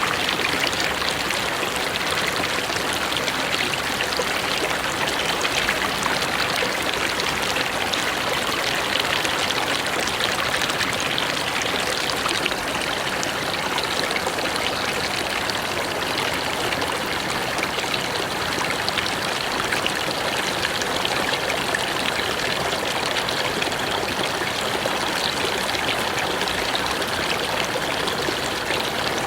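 A mountain river rushing and splashing over rocks, with a steady, even flow of water.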